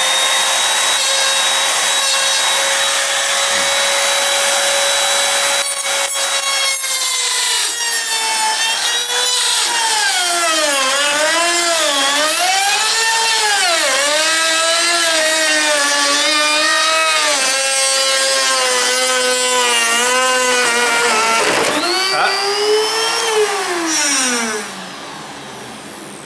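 Electric router spinning a bearing-guided template bit: a steady high whine, then the pitch sagging and recovering over and over as the bit bogs in the cut, a brief cut-out and re-rev about three-quarters through, then a falling spin-down. During this cut the bit's guide bearing fails and overheats, which makes the bit wander off the template.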